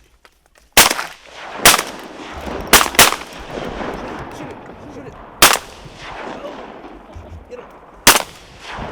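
Six shotgun blasts from duck hunters firing at ducks, each with a ringing echo. The first comes about a second in, the third and fourth are a quick pair, and the last is near the end.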